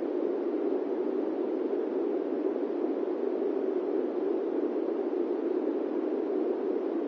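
Steady airplane-cabin white noise: an even, unchanging rushing hiss, strongest in the low-middle range, with no engine tones or events in it.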